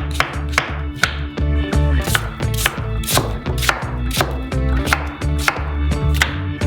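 Knife chopping fruit into cubes on a cutting board, a quick series of sharp strikes, over background music with a steady bass.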